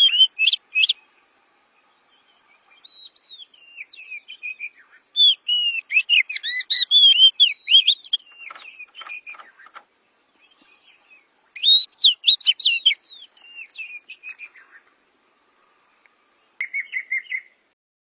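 Oriental magpie-robin (kacer) song: several bursts of loud, varied, sliding whistled phrases separated by short pauses, ending with a short rapid trill. A faint steady high tone runs under most of it and cuts off just before the trill.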